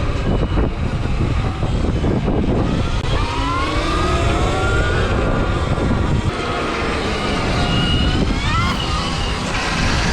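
Electric dirt bike's motor whining, rising and falling in pitch as it speeds up and eases off, over a heavy low rumble of wind noise.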